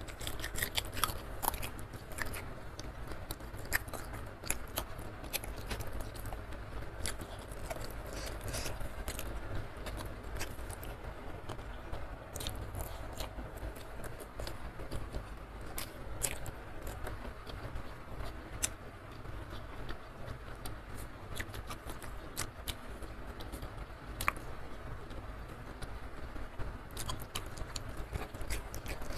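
Close-miked chewing and wet mouth clicks of someone eating rice with fried salted fish and petai beans by hand, with crisp crunches scattered throughout. A steady low hum runs underneath.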